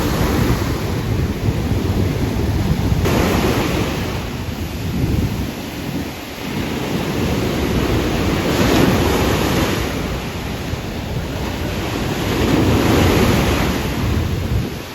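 Strong wind buffeting the microphone over breaking surf. The hiss of waves surges up every few seconds, three times.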